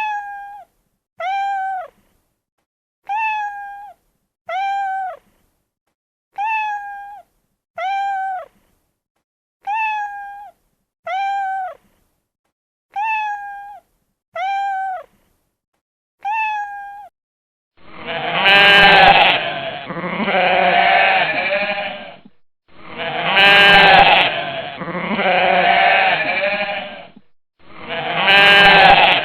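Animal calls: short, high-pitched calls in evenly spaced pairs, each falling at the end, then from about 18 seconds three long, loud bleats.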